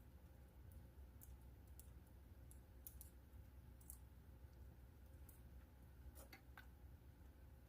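Wood fire crackling faintly: scattered, irregular small pops and snaps, a few louder ones in the second half, over a low steady hum.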